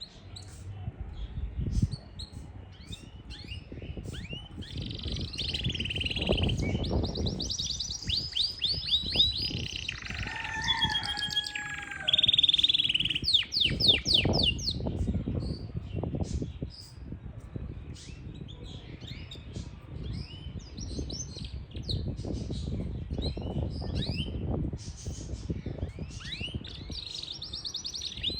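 Yorkshire canary singing: rapid high trills and chirped phrases, repeated again and again, with a low rumble coming and going underneath.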